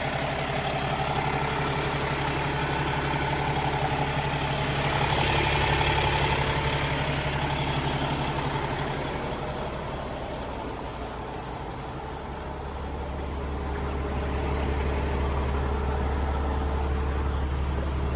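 Cummins X15 inline-six diesel of a Peterbilt 579 semi tractor idling steadily at operating temperature. It gets quieter about ten seconds in and comes back up a few seconds later.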